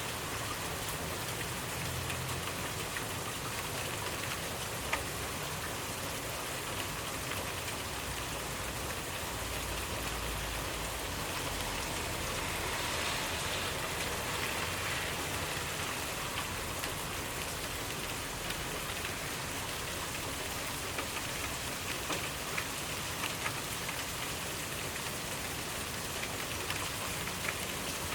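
Steady rainfall, with individual drops landing as small clicks now and then.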